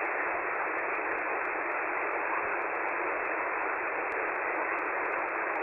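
Steady radio receiver hiss: 11-metre CB band noise heard through a KiwiSDR receiver's narrow sideband filter, with no signal on frequency while the transmitter changes over to lower sideband.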